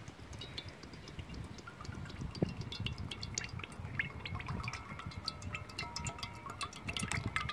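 Cooking oil being poured from a bottle into a cast-iron Dutch oven, glugging and splashing. There are many small pops and clicks, and the pouring gets busier about two seconds in.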